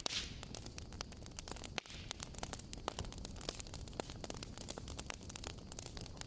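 Campfire crackling: many small irregular pops and snaps over a steady low rumble and hiss.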